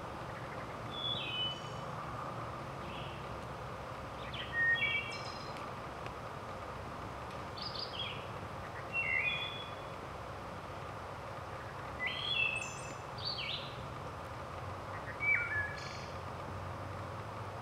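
Wood thrush singing: short phrases of a few clear notes, some ending in a higher trill, repeated every couple of seconds over a steady background hiss.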